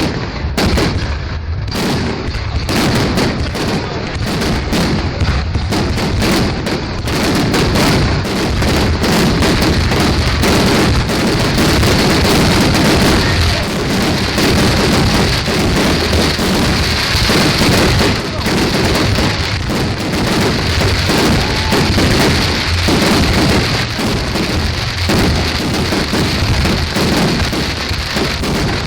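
Fireworks display in a continuous barrage, a dense unbroken run of bangs and crackles that overlap with no pause.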